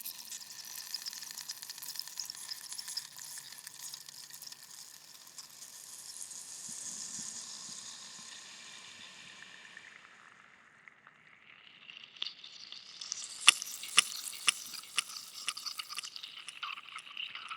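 White-noise ambient soundtrack: a crackling, sizzling hiss that thins out past the middle, then swells back with a run of sharp clicks near the end.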